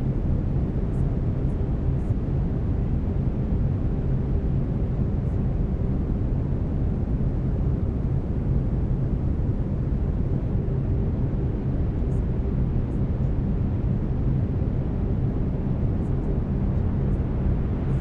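Brown noise: a steady, deep hiss that is strongest in the low end, with faint steady low tones under it from the binaural beats.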